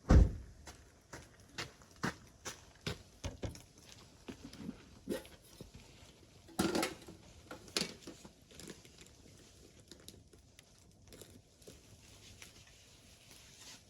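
A hard thump at the start, then irregular light knocks and clicks from things being handled, with a louder clatter about seven seconds in, thinning out toward the end.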